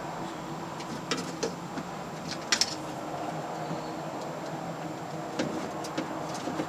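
Scattered light clicks and taps of metal and plastic parts being worked into a car door panel, in pairs about a second and two and a half seconds in and singly near the end, over a steady background hum.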